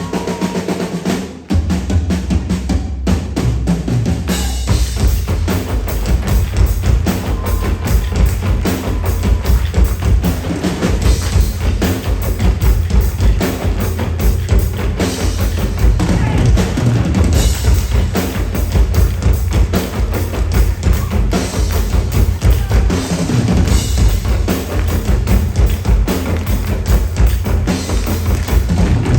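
Loud live percussion music: bass drum and snare in a fast, dense rhythm, with a brief break about a second in.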